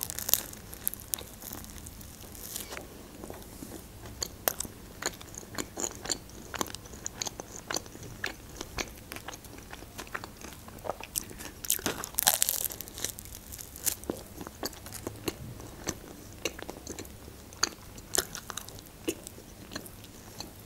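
A person biting and chewing crunchy breaded food close to a clip-on microphone: wet mouth clicks and crunches throughout, with a louder burst of crunching about twelve seconds in.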